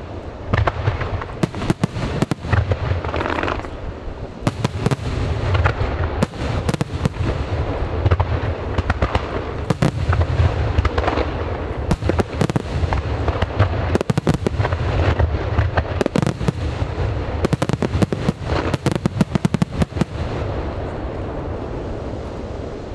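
Aerial fireworks display: rapid, overlapping bangs of bursting shells over a deep rumble, easing off near the end.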